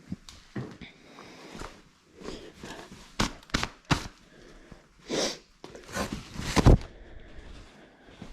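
Handling of engine parts and small tools at a workbench: a run of irregular sharp clicks and knocks, with the loudest clattering about two thirds of the way through.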